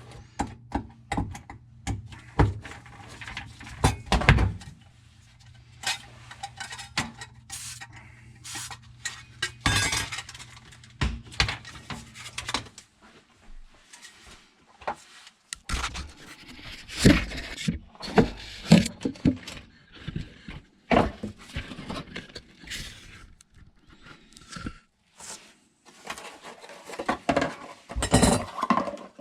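Irregular knocks, clinks and scrapes of tools and parts being handled while a garbage disposal is taken out from under a kitchen sink. A steady low hum runs underneath and cuts off about halfway through.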